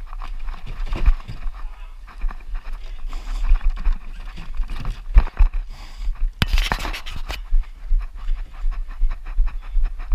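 A runner's heavy panting breaths with running footfalls and the microphone jostling. A louder rush of noise lasts about a second, about two-thirds of the way in.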